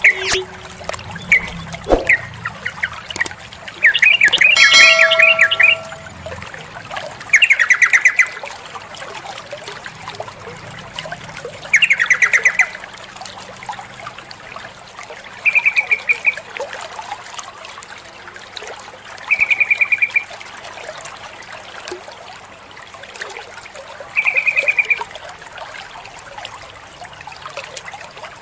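Female yellow-vented bulbul (trucukan) giving its calling note: short, rapid chattering bursts of about a second each, repeated roughly every four seconds, with one longer, louder phrase about four seconds in. Faint trickling water runs underneath.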